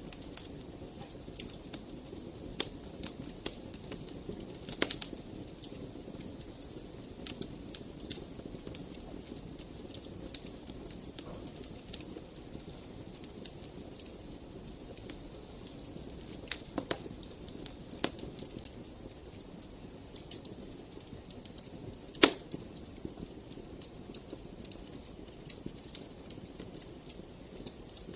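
Wood fire burning in a fireplace: a steady low rustle under irregular sharp crackles and pops, with one loud pop about three-quarters of the way through.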